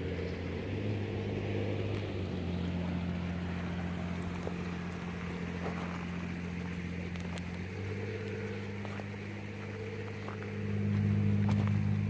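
Engine running steadily, its pitch stepping slightly a few times and growing louder near the end, over a faint steady hiss.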